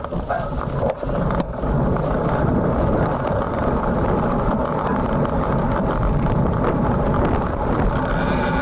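Wind buffeting the action camera's built-in microphone on a moving road bike in stormy typhoon wind, a steady heavy rumble mixed with road noise, with a few brief knocks in the first second or so. A faint high whine joins near the end.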